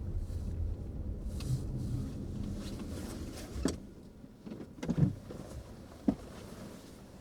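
A car's low road rumble dies away about halfway through, as if the car is slowing to a stop. Three sharp knocks follow, the loudest about five seconds in.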